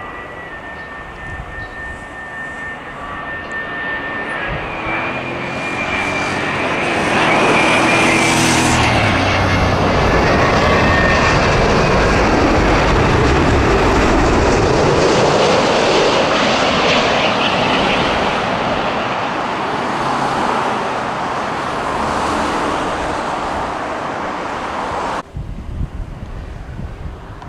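Boeing wide-body jet airliner flying past: engine whine and rumble build to a loud peak, with tones falling in pitch as it passes, then slowly fade. The sound changes abruptly near the end.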